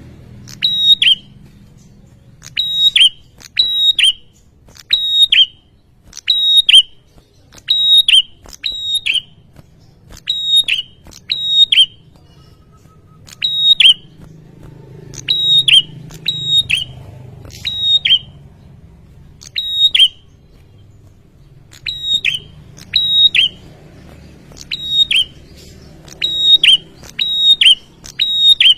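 Male prinia (prenjak) calling: sharp, high whistled notes repeated about once a second, often in quick pairs, each note dropping in pitch.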